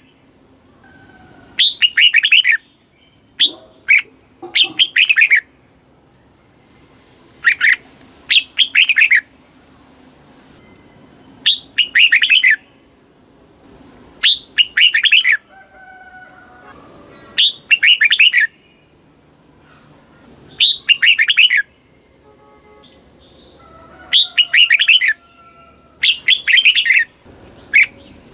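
Red-whiskered bulbul singing: short, bright, warbling phrases about a second long, repeated roughly every three seconds, with fainter bird calls between them.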